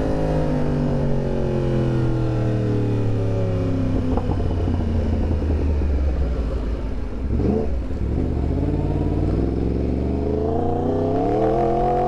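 Yamaha R1's crossplane inline-four engine on the move: its note falls steadily for about seven seconds as the bike slows, gives a short blip about seven and a half seconds in, then climbs again as it accelerates, dipping once near the end at a gear change.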